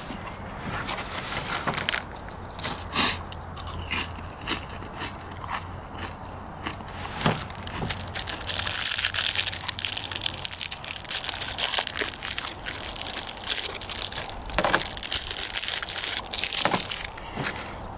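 A person chewing crunchy chips: irregular crunches, with a denser stretch of crackling in the middle.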